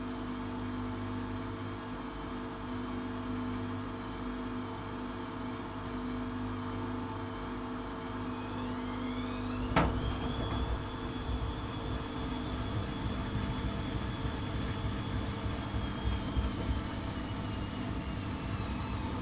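Atlant 70C1010 washing machine running with a steady motor hum. About halfway through, a whine rises as the drum speeds up, with a sharp click, then holds at a high steady pitch over irregular low knocks.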